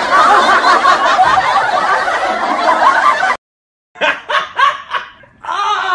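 Dubbed-in laughter: a dense laugh track of many people laughing at once that cuts off abruptly about three and a half seconds in, then after a short gap a man's hearty laugh in short bursts, ending in a long laugh that falls in pitch.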